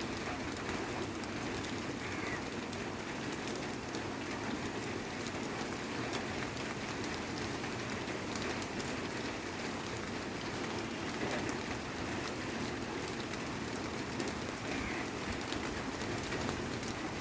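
Steady background hiss with two faint, short bird chirps, one about two seconds in and one near the end.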